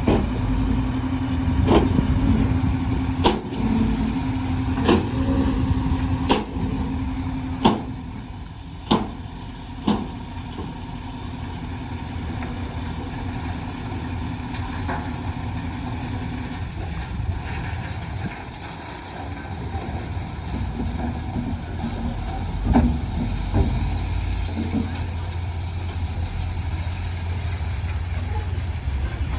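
Heavy truck engine running steadily, with a series of sharp knocks or clanks about every one to one and a half seconds during the first ten seconds. A steady hum in the engine sound stops about two-thirds of the way through.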